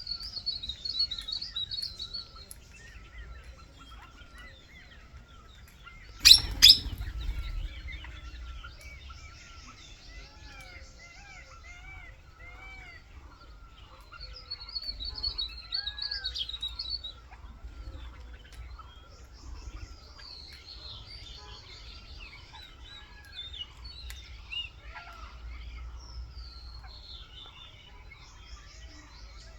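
Several birds chirping and calling, with short rising-and-falling chirps and bursts of high, fast trills. Two sharp knocks, close together, come about six seconds in.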